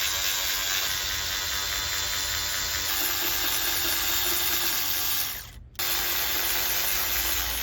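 Cordless power tool whirring as it runs out 10 mm bolts. It stops briefly about five and a half seconds in, then starts again.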